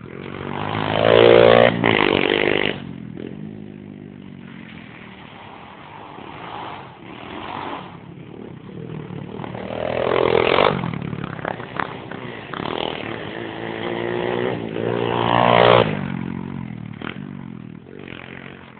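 Pit bike engines revving hard three times, each rise in pitch growing loud: near the start, about halfway through and again about three-quarters in. A lower engine drone runs between the revs.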